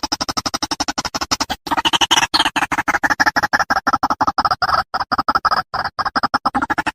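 White-breasted waterhen (ruak-ruak) calling: a fast, even run of short notes, about ten a second, growing louder about two seconds in.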